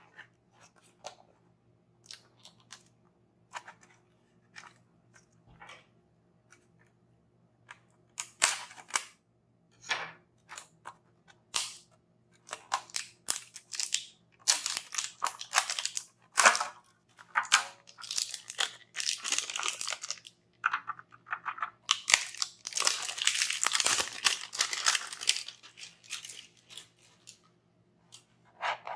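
Toy packaging being handled and torn open: scattered small clicks and taps, then from about eight seconds in, bursts of crinkling and tearing that grow dense and long in the second half.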